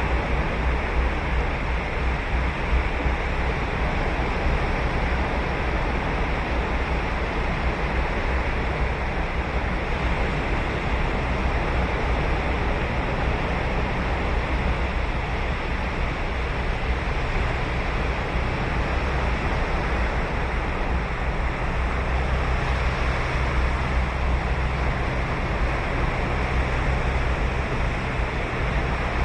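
Ocean surf breaking and washing on a sandy beach, a steady rushing noise with slow swells in loudness, with some wind rumble on the microphone.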